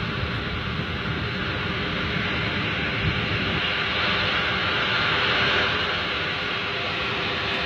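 Strong storm wind blowing steadily, buffeting the microphone, growing a little louder about four to six seconds in.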